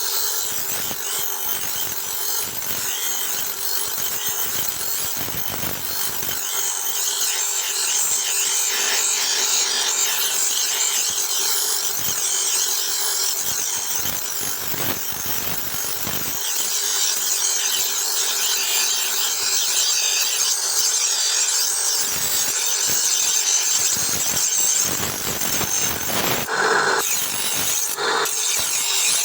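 Power grinder grinding a steel knife blank: a steady, continuous rasping hiss over the motor's even tone, getting somewhat louder about halfway through.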